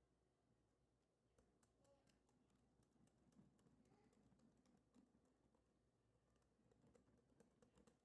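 Near silence, with faint irregular clicks scattered through it.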